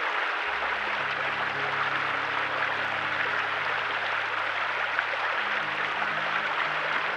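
Steady rush of flowing river water, with soft sustained background-music notes that shift a few times underneath.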